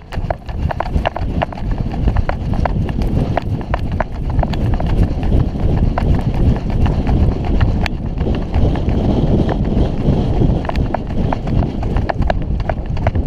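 Footsteps crunching and snapping through dry leaves and brush, irregular clicks and crackles over a heavy low rumble.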